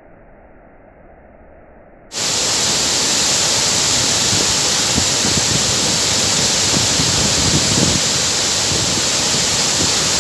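Faint, muffled hiss, then about two seconds in a sudden cut to the loud, steady rush of falling water from a waterfall.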